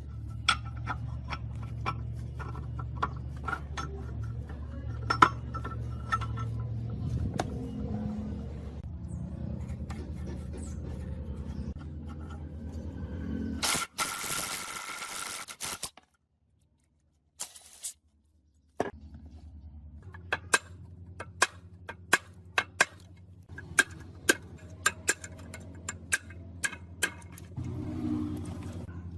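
Metal clinks, taps and scrapes of hand work on engine parts over a steady low mechanical hum. About halfway a loud burst of hiss lasts a couple of seconds, then everything drops out for a few seconds before the hum and clinking resume.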